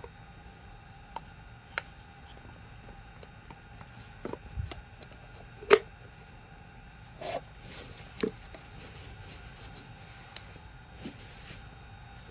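Scattered clicks and knocks of hand tools and metal parts being handled while a rotary hammer is worked on, about eight in all with the loudest one about six seconds in, over a faint steady hum.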